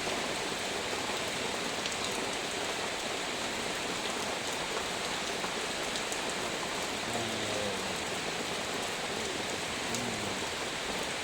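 Heavy rain falling steadily, a dense even hiss with scattered drops ticking on a surface.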